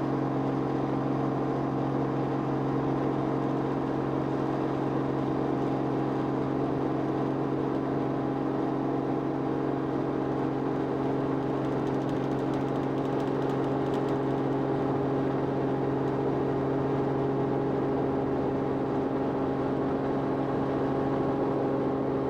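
Aircraft engine droning steadily, heard from on board: a constant low hum with several steady tones above it and no change in pitch.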